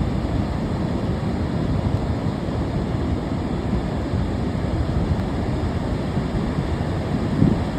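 Ocean surf washing in a steady low rumble, with a brief louder thump near the end.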